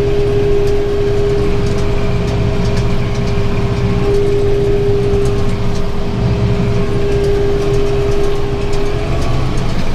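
Tractor engine running steadily under load, driving a round baler that is taking in a thick windrow of hay at low ground speed. A steady whine sits over the engine's rumble and fades out near the end.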